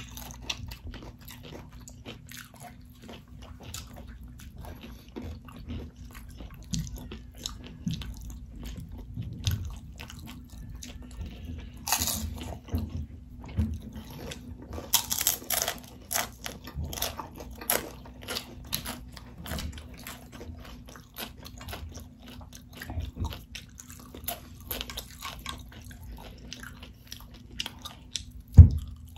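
Close-miked chewing of crunchy tortilla chips from loaded nachos: many crisp crunches and bites with wet mouth sounds, louder clusters of crunching about twelve and fifteen seconds in and again near the end.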